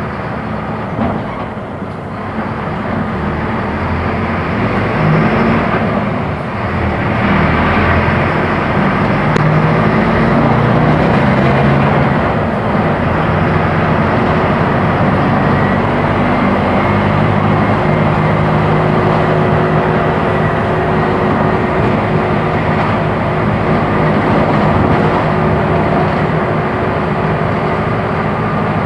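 Diesel engine of a 2008 Mercedes-Benz OF-1418 bus, a six-cylinder turbodiesel, running while the bus is under way. It grows louder over the first several seconds and then holds steady.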